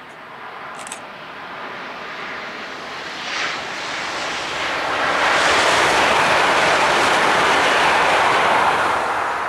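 Passenger train rushing past at speed on an electrified main line: a rushing noise of wheels and air that swells over the first half, is loudest and steady through the second half, and begins to fade near the end.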